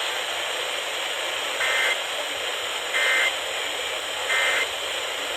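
Steady radio static with three short, identical bursts of EAS SAME digital data tones, a bit over a second apart. Their shortness marks them as the end-of-message code that closes a weather alert.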